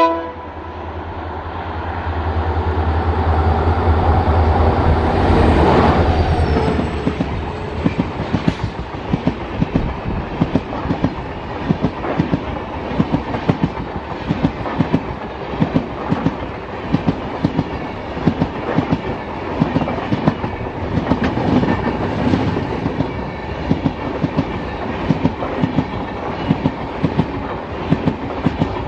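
Train passing at speed: a low rumble builds and peaks over the first six seconds as the front goes by, then the coaches run past with a rapid, steady clickety-clack of wheels over rail joints.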